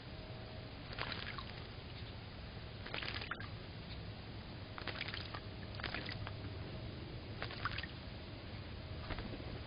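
Blue jay splashing in a bird bath: about five short bursts of splashing water, a second or two apart, over a low steady hum.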